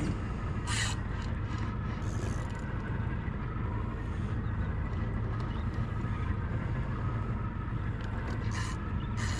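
Boat engine running steadily at idle, with a few short scrapes or knocks about a second in and near the end.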